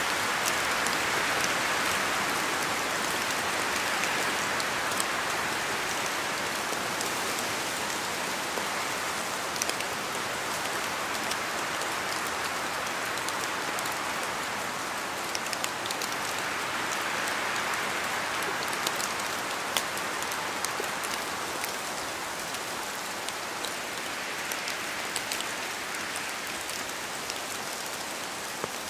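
Steady rain falling, a continuous hiss with scattered sharper drip ticks of individual drops hitting a surface.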